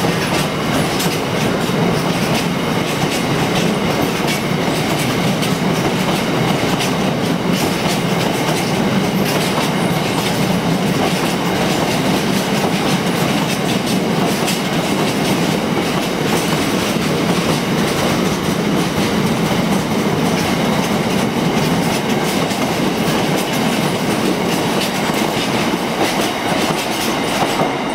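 Freight train wagons rolling steadily past, their wheels clattering over the rail joints in a continuous, even run of clicks and rumble.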